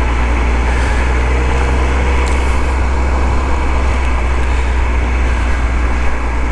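Motorcycle under way on a sandy dirt road: a steady engine drone with wind and road noise.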